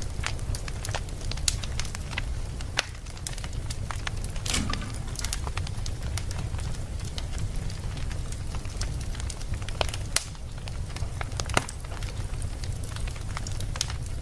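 Wood fire burning in a fireplace: irregular sharp crackles and snaps over a steady low rumble.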